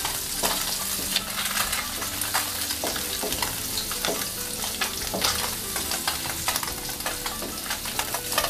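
Pieces of egg tofu sizzling and spattering in shallow hot oil in a wok, still a little wet, over a medium-high flame. A wooden spatula scrapes and taps against the wok as the pieces are turned over.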